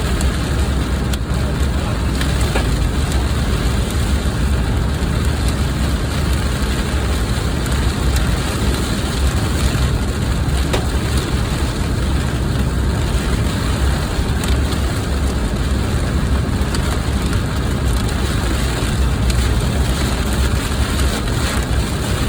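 Heavy rain pouring steadily on a car, with the low, steady rumble of the vehicle under it and a few faint single clicks.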